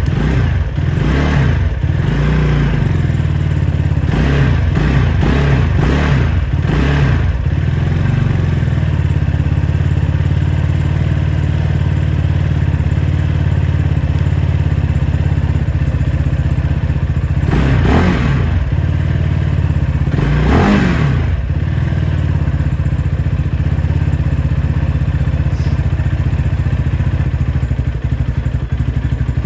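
Fuel-injected 250cc engine of a brand-new Venom X22R Max motorcycle running at idle, with short throttle blips in the first several seconds and two more past the middle. It is the bike's first running, with the ECU still learning the idle.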